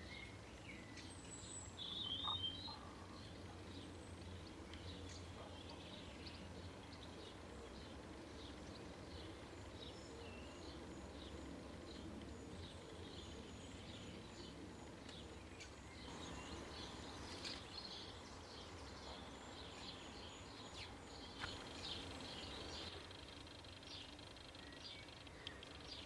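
Small birds chirping and calling faintly and on and off over a steady low outdoor rumble, with a louder cluster of calls about two seconds in and a busier spell of chirping about two-thirds of the way through.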